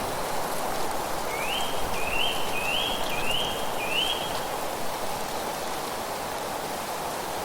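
A bird calls five times in quick succession, each note rising then briefly holding, over a steady rushing noise.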